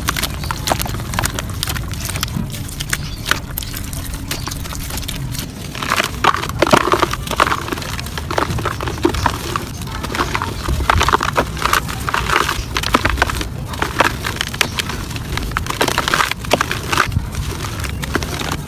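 Clumps of soft dirt crumbling and crunching, a run of sharp crackles and small breaks over a steady low rumble. The crumbling grows denser and louder about six seconds in.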